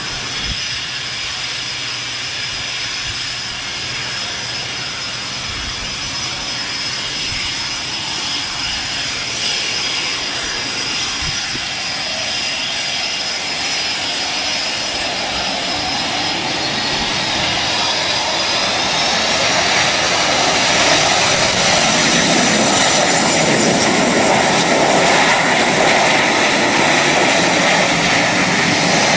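Jet airliner engines running: a steady high whine over a broad roar, which grows louder and rises slightly in pitch about two-thirds of the way through.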